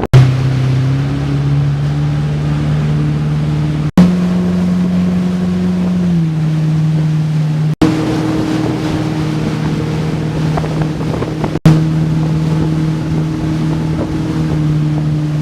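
Motorboat engine running at a steady speed, a droning hum that shifts pitch slightly now and then, over wind and water noise. The sound breaks off sharply about every four seconds where short clips are spliced together.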